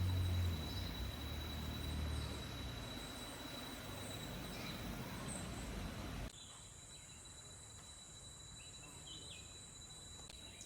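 Rainforest ambience with a steady, high-pitched insect trill throughout, over a noisy background with a low rumble in the first couple of seconds. About six seconds in the background drops abruptly to a quieter one, and a few short bird chirps come near the end.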